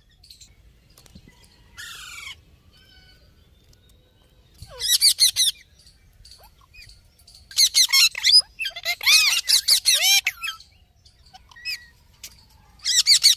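Green parrot calling in several loud bouts of high, pitch-bending calls, about five seconds in, again from about eight to ten seconds, and once more near the end, with a fainter falling call about two seconds in.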